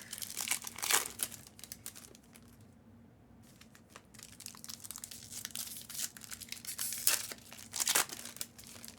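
Foil trading-card pack wrappers being crinkled and torn open by hand, in irregular crackling bursts that are loudest about a second in and again near the end, over a faint steady low hum.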